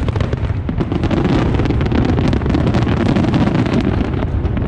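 Fireworks shells bursting in rapid, overlapping succession, a continuous deep rumbling barrage of booms and crackles with no pause between them.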